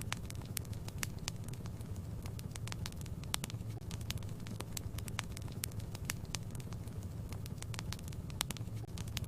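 Wood fire crackling in a fireplace: a steady low rumble of burning with frequent sharp pops and snaps, several a second.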